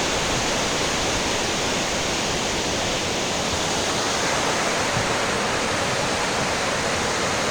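River water pouring over a waterfall: a steady, unbroken rush of falling water.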